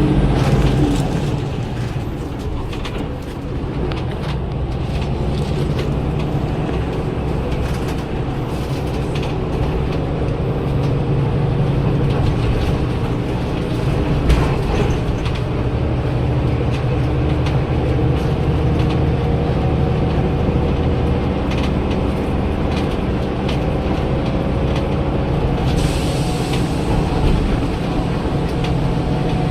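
Daewoo BS106 city bus's Cummins ISL Euro 6 300 PS six-cylinder diesel engine running steadily, with a low hum and scattered rattles and clicks. A short hiss of air comes about 26 seconds in.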